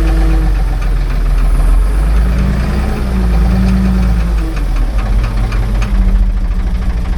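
Ford 555 backhoe's diesel engine running steadily, its pitch rising and falling a little midway as the engine speed changes.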